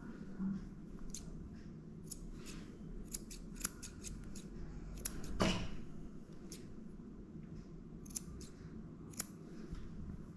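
Grooming scissors snipping matted hair from around a dog's paw: a run of short, sharp, irregular snips. A louder brief sound about halfway through.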